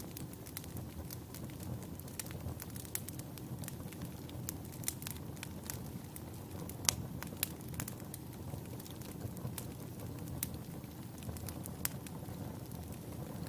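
Wood fire burning in a fireplace: a steady low rush of flames with irregular sharp crackles and pops from the logs, one louder pop about seven seconds in.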